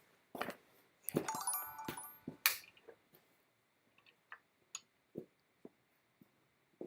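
Handling noise: a cluster of clicks and knocks with a brief bright chime-like ring about a second in, then scattered single light taps and knocks.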